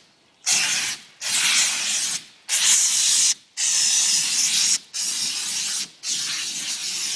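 Handheld fire extinguisher spraying in about six short spurts, each about a second long, with brief gaps between them.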